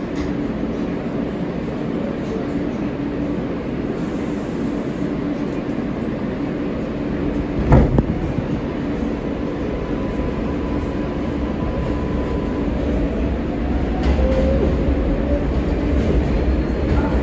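R143 subway car running on the track, heard from inside the car: steady rumble and rattle, with one sharp clunk about eight seconds in and a faint whine for a couple of seconds later on.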